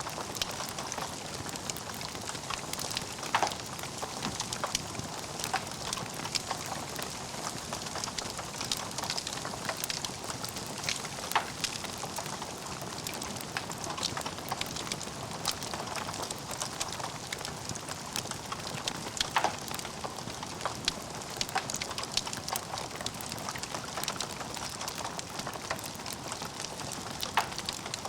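Wood fire burning in a fireplace, crackling steadily with frequent small sharp pops and a few louder ones scattered through.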